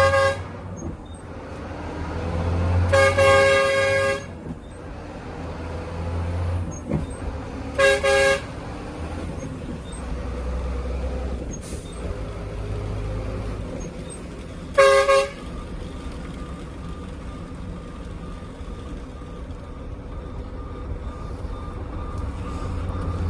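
Howo dump truck's horn honking over the steady low rumble of its diesel engine: a blast of about a second a few seconds in, a quick double toot a third of the way through, and a short toot past halfway.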